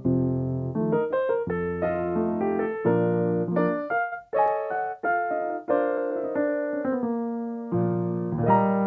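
Solo piano played live: a flowing melody over sustained chords, with notes changing several times a second.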